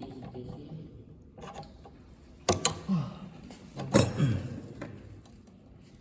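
Mechanical clatter from a machine's moving parts: a sharp clack about halfway through and another a second and a half later, each followed by a short falling whir, with fainter clicks around them.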